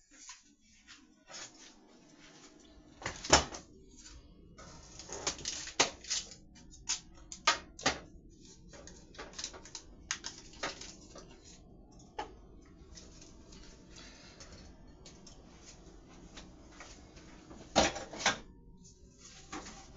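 Irregular knocks, clicks and clatter of things being handled in a kitchen, over a faint steady hum. The loudest knocks come about three seconds in and near the end.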